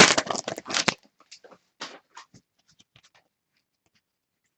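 Trading-card pack wrapper crinkling as it is torn open, stopping about a second in. A few faint ticks and rustles of cards being handled follow.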